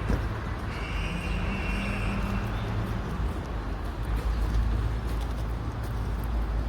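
Steady low rumble of road traffic in a street, with a high, thin whine held for over a second near the start.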